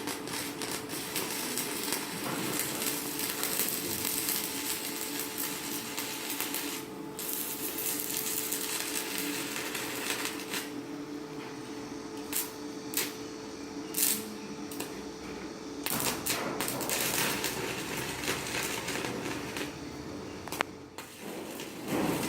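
Stick-welding arc from a 4.0 mm electrode on a Chinshui 160ARC inverter welder, crackling steadily, with a few sharp pops and brief dips in the second half.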